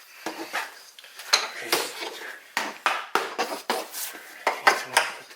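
Irregular clattering and knocking of hard objects being handled, picked up and set down, a dozen or so sharp knocks of varying loudness.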